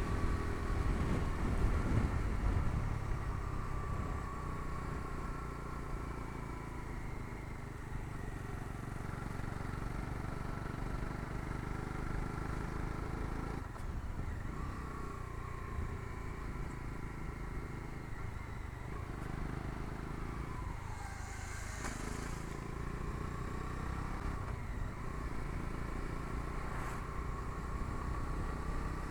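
Bajaj Dominar 250's single-cylinder engine running as the motorcycle is ridden two-up, heard from the pillion seat. It is a little louder for the first two or three seconds, then runs steady.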